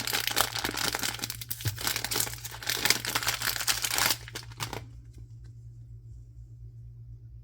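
Packaging crinkling and tearing as a blind-box item is unwrapped by hand, with many sharp crackles, stopping abruptly about two-thirds of the way through. After that only a faint low steady hum remains.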